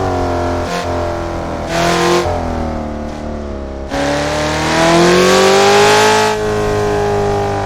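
Car engine heard onboard during a lap. It rises briefly, falls in pitch off the throttle, then comes back on sharply about four seconds in and revs up for two seconds with a loud hiss, before settling near the end.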